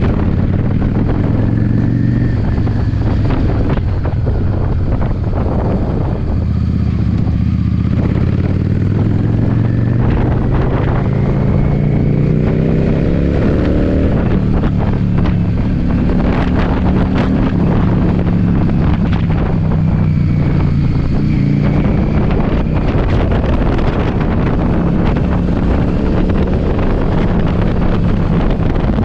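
Yamaha V-Star's V-twin engine running at road speed, with strong wind buffeting the microphone throughout. The engine pitch climbs once a little before halfway as the bike speeds up, then holds steady.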